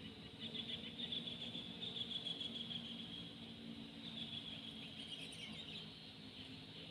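Sooty-headed bulbul calling in rapid chirping runs, one through the first few seconds and another a little past the middle, over a faint steady low hum.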